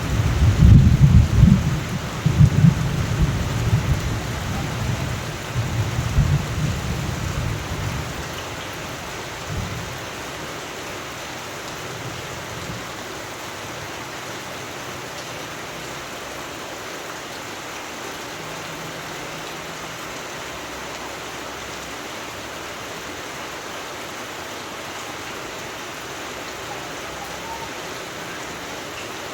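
Steady rain falling, with a long roll of thunder rumbling loudly over the first several seconds and dying away about eight to ten seconds in, leaving only the even hiss of the rain.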